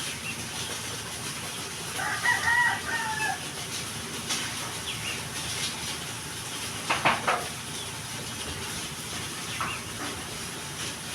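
A rooster crowing once, about two seconds in, over a steady hiss. A few sharp clicks or knocks follow later.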